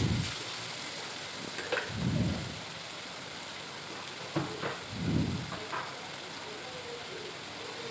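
Onion-tomato masala sizzling steadily in oil in a kadai as it is stirred, with a couple of soft stirring strokes and a few light spoon taps.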